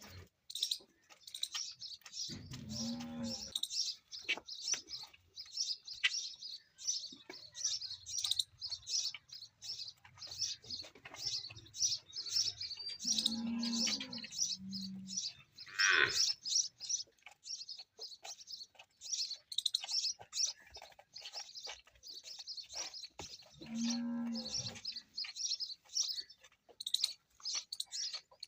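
A calf mooing in three short bouts, about two, thirteen and twenty-four seconds in, over continuous chirping of small birds. A single call falling in pitch comes about sixteen seconds in.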